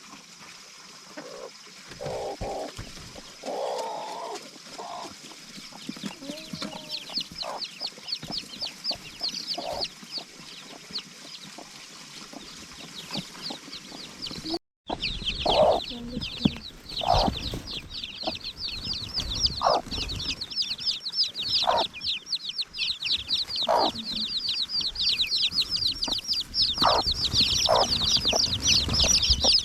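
Chickens clucking, with a dense, fast chorus of high peeps that grows louder after a brief break about halfway through.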